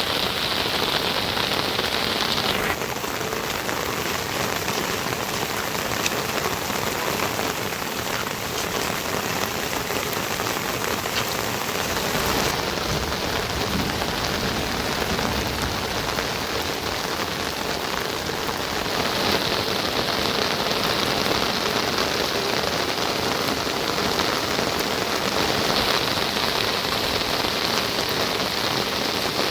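Steady rain falling: an even, dense hiss.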